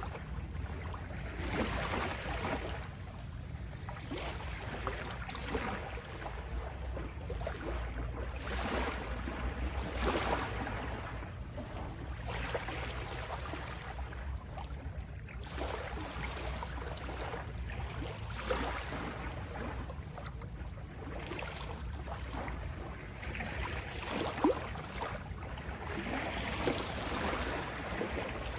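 Small sea waves lapping and washing on a shore, swelling and fading every few seconds over a steady low rumble.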